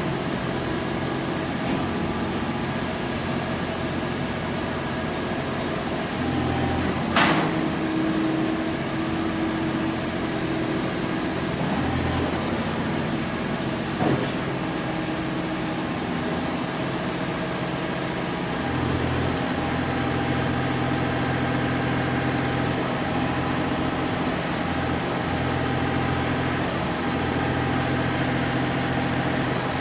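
John Deere 3520 compact loader tractor's diesel engine running steadily, its note shifting about six seconds in and again past halfway as the engine load changes. A brief high squeak comes about seven seconds in, and a click at about fourteen seconds.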